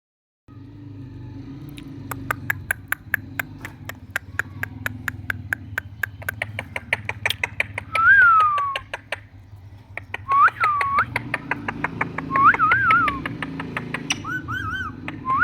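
Indian ringneck parakeet giving short whistled calls that bend up and down in pitch, one about eight seconds in and several more in the second half. Underneath, a rapid run of sharp clicks at about five a second and a low steady hum.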